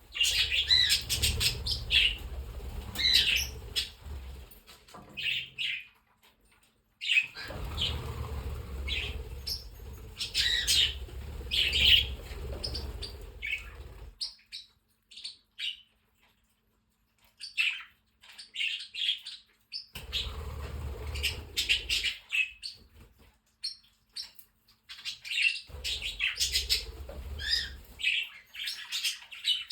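A flock of pet budgerigars and other small parrots chirping and chattering in quick bursts, with a low rumble under some stretches. The sound stops abruptly a few times, once for about three seconds near the middle.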